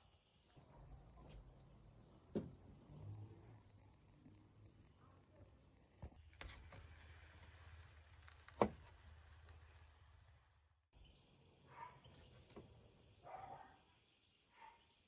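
Quiet rural ambience: a small bird chirps in a regular series about twice a second, with a few sharp clicks, the loudest about eight and a half seconds in.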